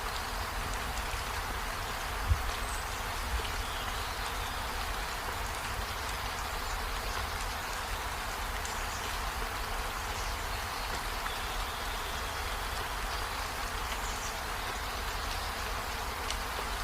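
Steady rain falling, with a low rumble underneath and a few faint short high chirps. One low thump about two seconds in.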